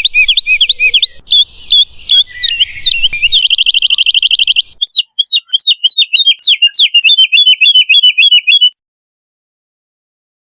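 Woodlark singing a string of quick, sweeping whistled notes, with a fast, even trill in the middle and then a run of repeated notes. The song breaks off about two seconds before the end, leaving silence.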